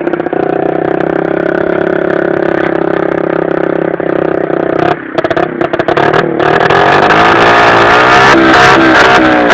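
Baotian 50cc scooter engine running through a stunt-style aftermarket exhaust, held at a steady speed for about five seconds. It then dips briefly a few times and revs up and down through the rest.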